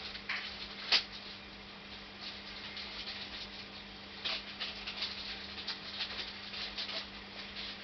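Scattered faint clicks and light rattles of small parts being handled, with one sharp click about a second in, over a steady low electrical hum.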